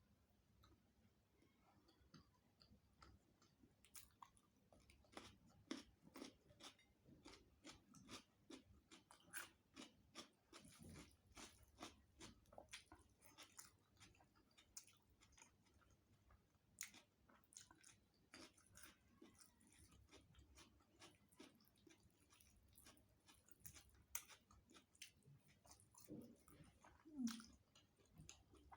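Quiet, close-miked chewing of a rice-and-curry meal: many short, irregular mouth clicks and bites, a few a second.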